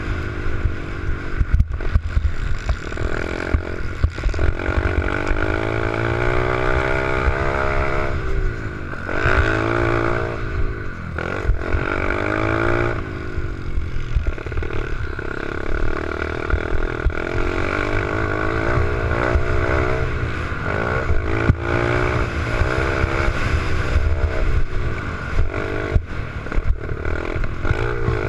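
Small 88cc pit bike engine running and being ridden, its pitch rising and falling again and again as the throttle is opened and closed.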